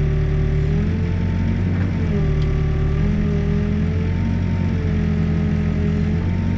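Backhoe's diesel engine running steadily under load while digging, with a hydraulic whine that dips and rises in pitch several times as the boom and bucket are worked.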